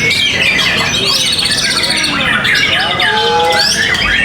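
Many caged songbirds singing at once in a dense, loud chorus of overlapping trills, rapid chirps and sliding whistles.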